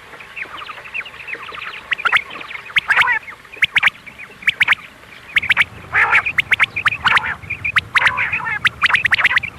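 Recorded female quail calls played as a hunting lure: a dense, rapid chatter of short, high, downward-sweeping chirps, swelling into louder clusters several times.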